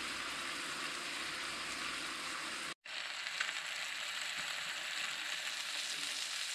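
Pike fillets frying in a pan, a steady sizzle that cuts out briefly about three seconds in and then carries on, the fish almost done.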